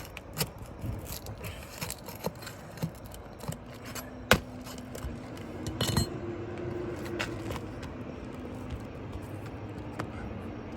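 Scattered light clicks and scrapes of hand work on roof shingles, with one sharp click a little over four seconds in. From about six seconds a faint steady hum runs underneath.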